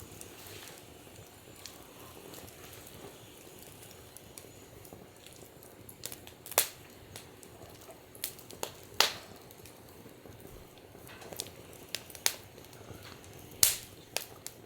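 Wood fire burning in a fire stand, crackling softly, with several sharp pops from the burning wood; the loudest come near the middle and near the end.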